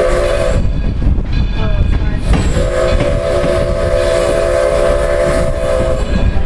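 Steam locomotive whistle blowing long blasts over the steady rumble of the moving train. One blast ends about half a second in, and a second long blast sounds from about two seconds in to about six.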